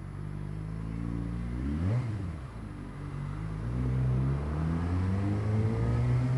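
Suzuki GSX-R600's inline-four engine pulling through slow traffic: its pitch rises and falls quickly about two seconds in, then climbs steadily as the bike accelerates.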